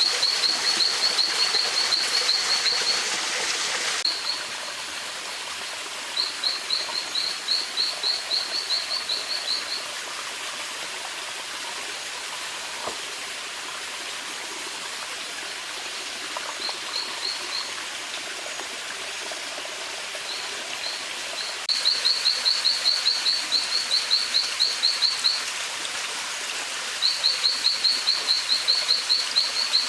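A songbird singing trills of rapid, evenly repeated high notes, about four or five a second, in phrases a few seconds long with pauses between, over the steady rush of a stream. The water is louder for the first few seconds.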